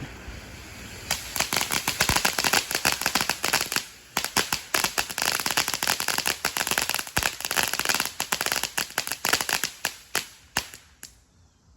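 Consumer firework, the Enigma, going off in its encore: a dense run of rapid pops and crackles starting about a second in, with a short lull near four seconds, thinning out and stopping near the end.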